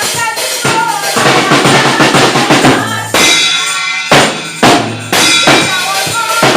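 Loud drum-led music, with a drum kit beating out bass drum, snare and rimshot strokes, and a voice over it at the start and near the end.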